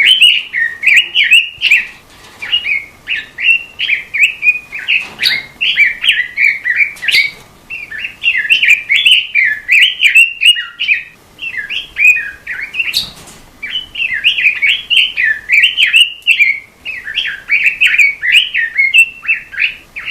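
Cage-bird 'robin' singing a long run of rapid, warbling phrases, with brief pauses between bursts.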